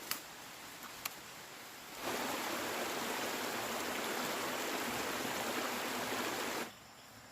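A steady hiss of water, cutting in sharply about two seconds in and stopping abruptly near the end, after a couple of light clicks.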